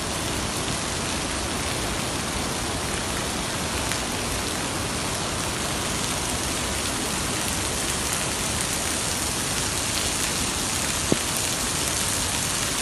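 Steady, unbroken rush of falling water, an even hiss spread from low to high pitch, with a single sharp click near the end.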